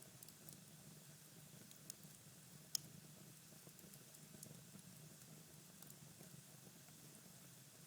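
Cherry-wood fire in a fireplace crackling faintly: a few small, sparse pops and ticks, the loudest a little under three seconds in, over a faint steady low hum.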